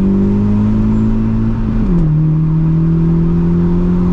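Modified car's engine heard from inside the cabin, pulling with slowly rising revs, then dropping sharply about two seconds in at an upshift before pulling steadily again.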